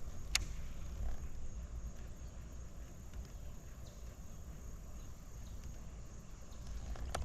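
Strong wind buffeting the microphone, a steady low rumble, with a single sharp click a moment in and another near the end.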